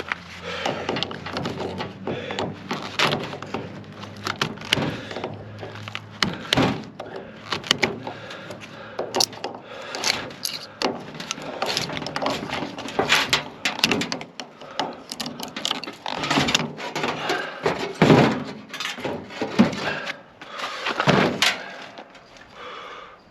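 Irregular hand-tool knocking, scraping and prying on a microwave oven transformer, done to check what its windings are made of. A faint low hum runs under the first few seconds.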